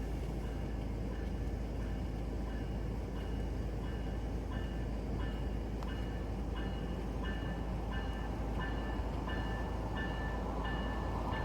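VIA Rail Siemens Charger locomotive and its train running on the rails, a steady low rumble. A faint high two-note tone repeats about every two-thirds of a second over it.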